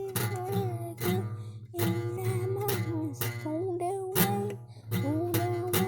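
Acoustic guitar strummed in a steady rhythm, with a voice singing long, wavering held notes over it without clear words.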